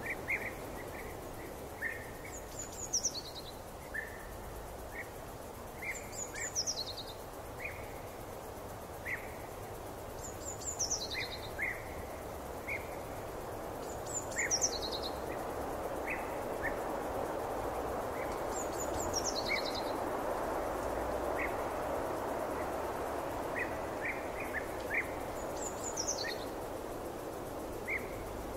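Forest ambience of birdsong. One bird repeats a short, high call that falls in pitch, roughly every four seconds, and other short chirps come in between. Under it runs a soft, steady rushing that grows a little louder midway.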